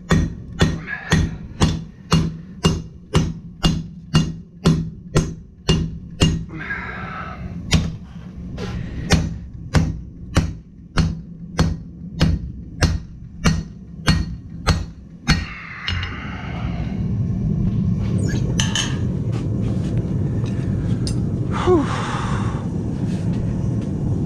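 Hand hammer striking hot steel on an anvil, a steady run of blows about two a second that stops about fifteen seconds in. A steady rushing noise follows, with a few separate clanks.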